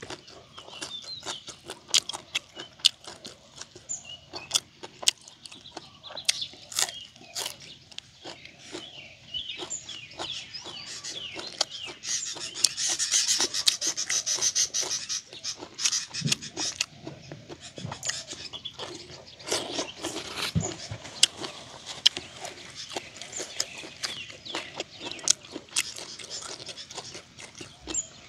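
Close-miked eating sounds of a man chewing grilled frog and papaya salad: wet mouth clicks and smacks with crunching, a louder stretch of crunching around the middle. Small birds chirp in the background.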